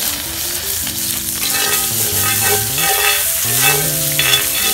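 Garlic and vegetables frying hard in hot olive oil in a cast-iron skillet over an open wood fire, a steady loud sizzle while a spoon stirs them.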